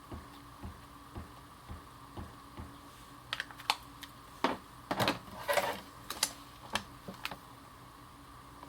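Ink pad dabbed repeatedly onto a bee stamp to ink it, light even taps about twice a second, followed by a run of sharper clicks and knocks from about three seconds in.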